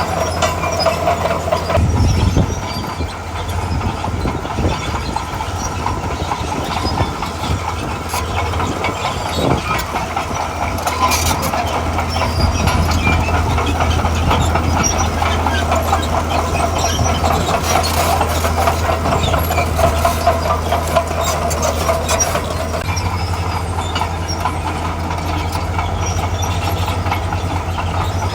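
Diesel engine of a heavy tracked earthmover running steadily under load, with its steel tracks clanking and scattered metallic knocks. The engine note changes about two seconds in and returns near the end.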